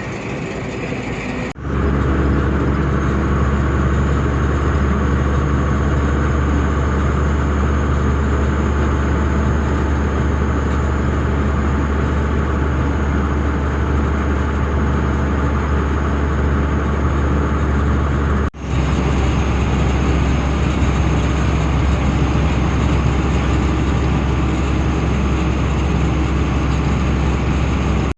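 Tata truck's diesel engine and road noise running steadily while under way, with a strong deep rumble underneath. The sound breaks off suddenly and briefly twice, about a second and a half in and again about eighteen seconds in.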